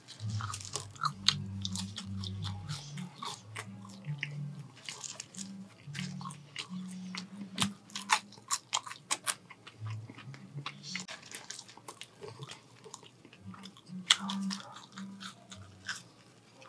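Close-miked eating of fast-food fries and fried chicken: crunching, biting and wet mouth clicks in quick irregular bursts. Under it runs the low bassline of party music in the background.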